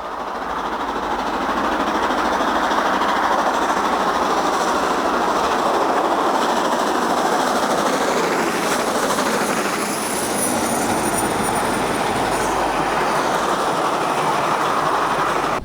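Two LMS Stanier Black Five 4-6-0 steam locomotives double-heading a train, working hard as they get away, their exhaust and the running train making a loud, steady din that builds over the first couple of seconds.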